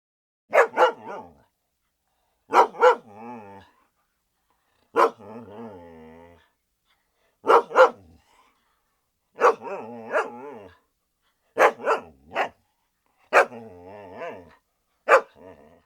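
A dog barking in eight short bouts about two seconds apart. Each bout is two or three sharp barks trailing off into a quieter, wavering, growl-like tail.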